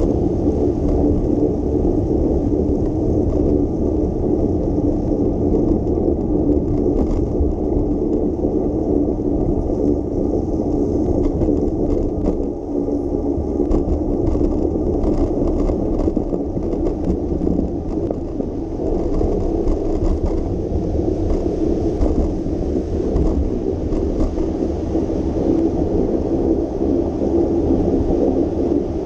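Steady low rumble of a bicycle rolling over wet city roads, with wind on the microphone. Light clicks and rattles come and go from about six seconds in until nearly twenty seconds.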